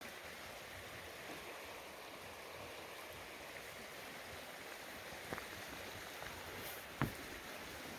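Steady rush of flowing water, with a few light clicks and a sharper knock about seven seconds in.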